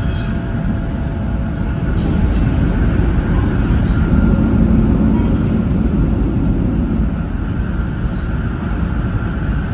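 700 series Shinkansen train running at speed: a steady low rumble of wheels and running gear, with a faint high tone above it, swelling a little about four seconds in and easing after about seven.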